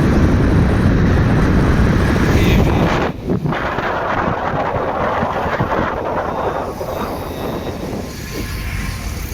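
Wind rush and road noise from riding a motorcycle in traffic. The noise is loud and heavy in the low end, drops sharply for a moment about three seconds in, then carries on a little quieter.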